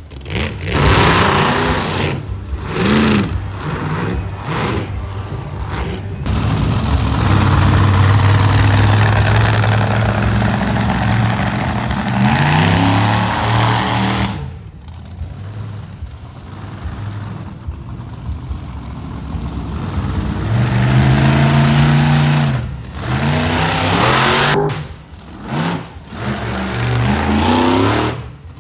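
Monster truck engine revving hard in repeated bursts, its pitch climbing and dropping, held high and steady for several seconds near the middle.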